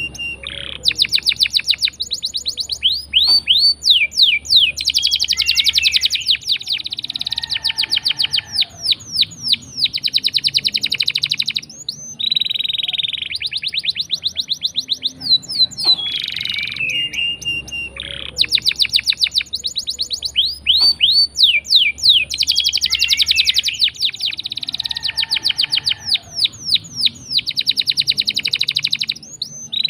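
Domestic canary singing long rolling trills: rapid runs of high, repeated notes broken by short pauses, with the same run of phrases coming round again about halfway through.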